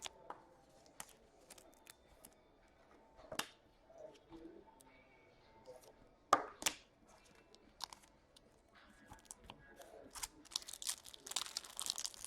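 Trading cards being handled and a card pack wrapper torn open: scattered light clicks and slaps of cards, then a run of crinkling and tearing near the end.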